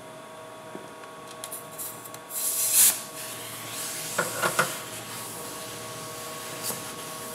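A short, loud hiss of compressed air about two and a half seconds in, then a few sharp clicks and knocks, over a steady electrical hum.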